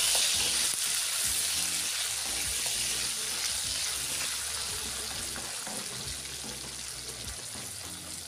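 Liver pieces and onions sizzling in hot oil in a kadai, stirred with a wooden spatula. The sizzle grows slowly quieter.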